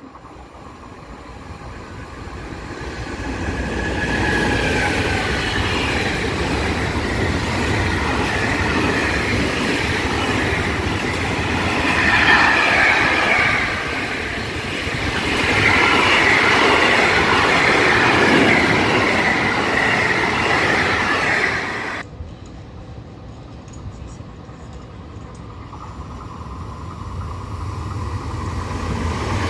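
Container freight train hauled by an E483 electric locomotive running through at speed, with loud rolling and clatter of wagon wheels on the rails and high wavering squeals. The sound builds over the first few seconds. It cuts off abruptly about two-thirds of the way in, replaced by the quieter, rising rumble of an approaching SBB EuroCity electric passenger train.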